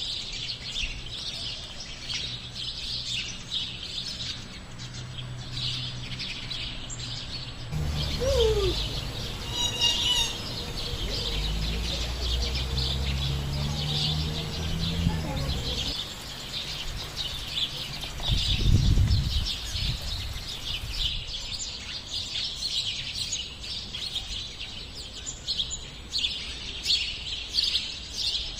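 Many small birds chirping and twittering together in a dense, unbroken chorus. Through the middle there is a low rumble, with a louder low thump about two-thirds of the way through.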